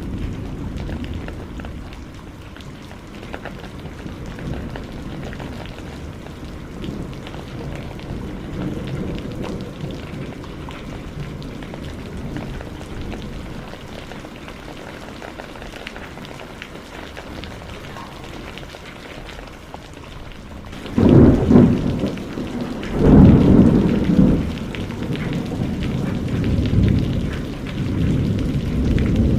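Steady rain with low rolling thunder. About two-thirds of the way in come two loud thunderclaps about two seconds apart, each rumbling away slowly.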